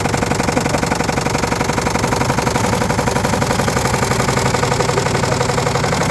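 Washing machine running with stones inside its drum: a loud, fast, steady rattling and knocking as the stones are thrown around.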